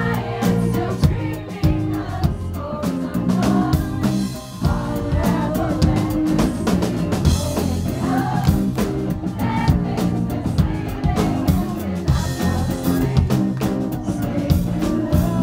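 Live rock band playing a song: a drum kit keeps a steady beat under a singing voice and guitar.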